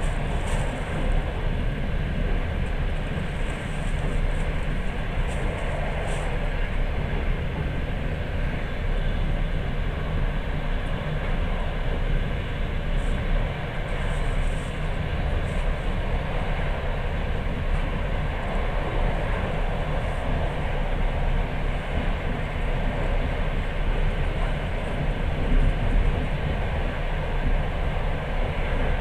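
Steady running noise of a moving passenger train: a continuous low rumble of wheels on rails, heard from inside the carriage.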